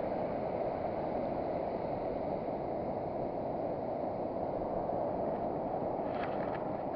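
Steady, even wash of surf breaking on a sandy beach, with a few faint clicks about six seconds in.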